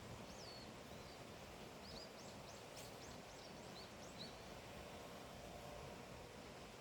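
Faint steady background hiss with a bird's high, quick chirps: one curved call early, then a rapid run of short chirps from about two seconds in to about four seconds.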